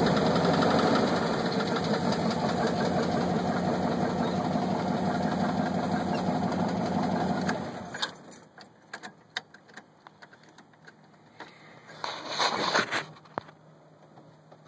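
1983 GMC pickup engine running with a pretty bad knock, which the owner takes for a rod knock. The engine is switched off about eight seconds in, and a few light clicks and a brief rattle follow.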